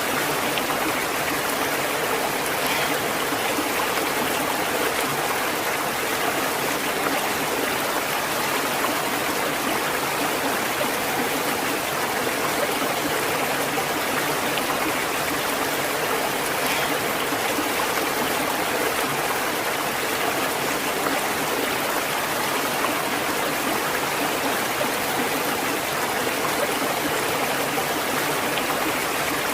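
Natural running water, like a stream, making a steady, even rush that does not change.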